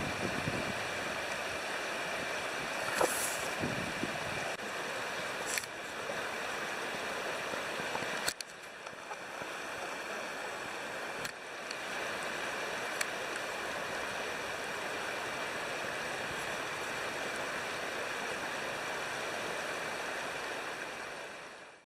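River water rushing steadily, with a few sharp pops from a wood campfire. The sound dips slightly about a third of the way in and fades out at the very end.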